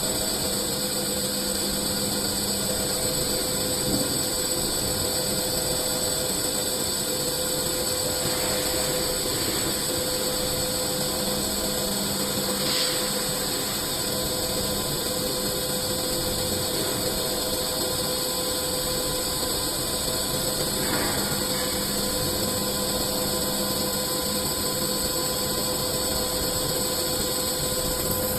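CNC lathe running steadily while turning a metal cylinder into a ball: a constant machine noise with steady whining tones.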